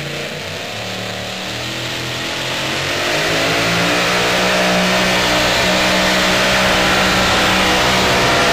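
Supercharged engine of a super modified two-wheel-drive pulling truck revving up, rising in pitch and getting louder over the first few seconds. It then holds steady at high revs for the rest of the run.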